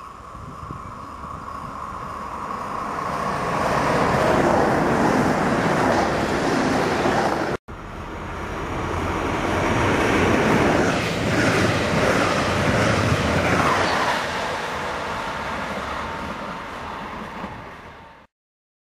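A Deutsche Bahn class 605 ICE-TD diesel multiple unit approaches and passes, growing steadily louder. After a sudden cut, a class 218 diesel locomotive with a regional train passes, loudest about halfway through, then fades away.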